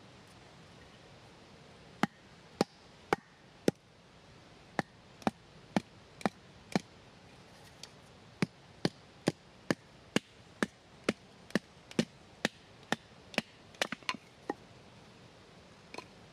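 Wood being chopped: sharp chopping strokes, about two a second, in runs with short pauses, starting about two seconds in.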